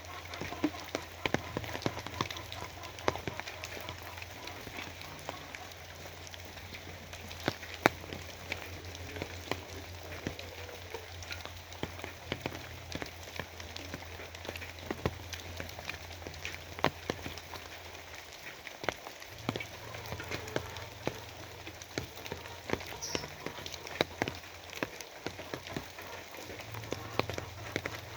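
Steady rain, with many sharp, scattered drops striking a surface and a low steady rumble underneath.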